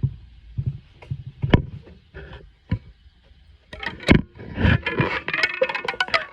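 Handling knocks and scrapes of a camera being wedged into a makeshift rubber-band stand: a handful of separate knocks at first, then a dense clatter of clicks and rattles from about four seconds in.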